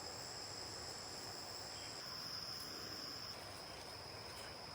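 A chorus of rainforest insects trilling steadily in high, thin tones at two pitches, with a third, higher insect joining about two seconds in and stopping a second later.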